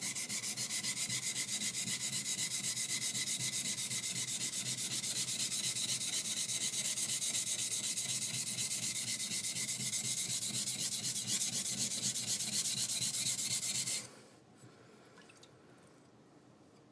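High-speed steel skiving knife rubbed back and forth on a sharpening stone in quick, even strokes, about four a second, grinding its edge flat. The strokes stop abruptly about 14 seconds in.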